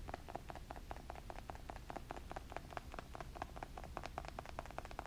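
Cockatoo kissing a pottery bird figurine, making a steady run of quick clicks, about nine a second.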